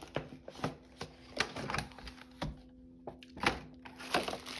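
Small rubber alphabet stamps being picked through in their box, clicking and tapping against each other and the container in irregular knocks about one or two a second.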